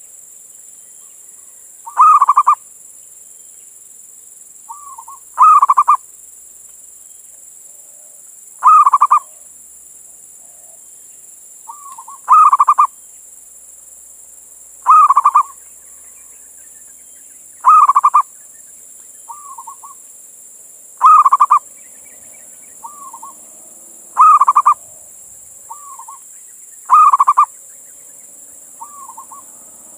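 Male zebra dove (perkutut) cooing its call to a female: a loud short phrase repeated about every three seconds, with fainter, shorter notes before several of the phrases. A steady high hiss runs underneath.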